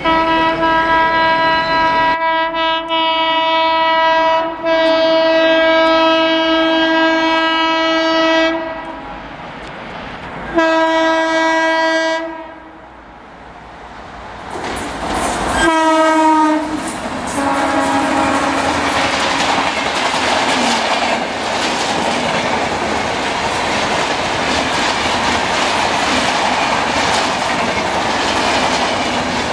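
Locomotive horn of a high-speed train sounding in long blasts. The first runs about eight seconds with a short dip partway, the second comes about ten seconds in, and a last blast near sixteen seconds drops sharply in pitch as the locomotive passes. The train then rushes past with steady wheel noise and clickety-clack.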